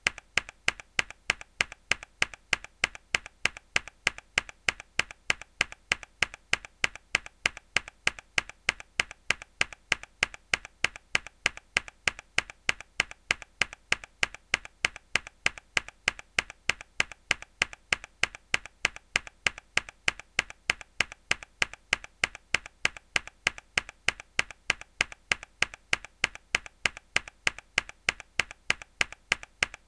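A mechanical keyboard key pressed hard over and over, each press a sharp click, repeated at an even pace.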